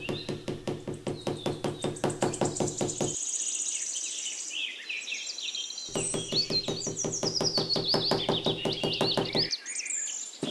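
Rapid light hammer taps on a small wooden post, about five a second, in two runs of roughly three seconds with a gap between them. Birds chirp over the second half.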